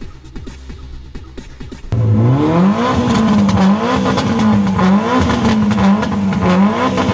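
Car engine revved hard in an exhaust competition. About two seconds in it comes in loud, climbs quickly in pitch, then is held at high revs with the pitch wavering up and down about once a second.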